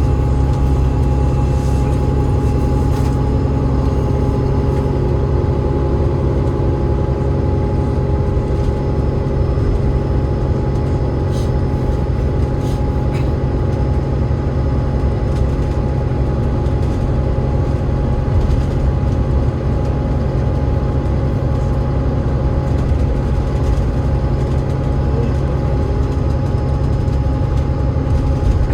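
Alexander Dennis Enviro500 MMC double-decker bus running steadily: its Cummins ISL8.9 diesel and ZF EcoLife automatic drivetrain give a heavy low drone with a thin steady whine over it, heard from on board.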